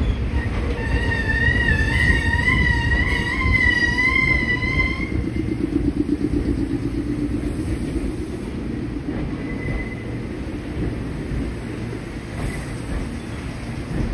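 Meitetsu electric train arriving and slowing at the platform: a low rumble with a high, wavering squeal for the first few seconds. The rumble then eases as the train comes to a stop.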